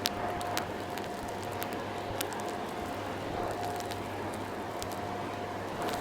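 Vacuum cleaner motor running steadily with a constant whine, with scattered crackles and clicks as grit and debris are sucked up through the hose.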